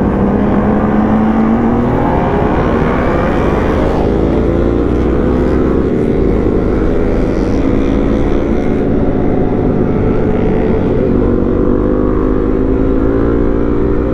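Honda CRF250 Rally's single-cylinder engine under way, its pitch climbing over the first few seconds as the bike accelerates, then holding nearly steady with a slow rise at cruising speed. Steady wind rumble on the microphone underneath.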